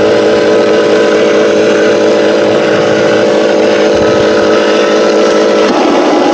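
Remote-control logging truck running with a steady engine-like drone and a pitched hum; the hum changes about a second before the end.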